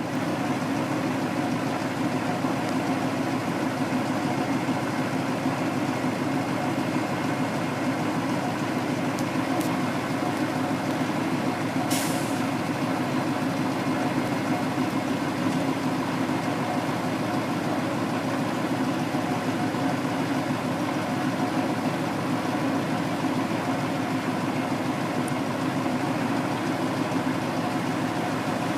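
Heavy truck engine idling steadily at a constant pitch, with one brief sharp click about twelve seconds in.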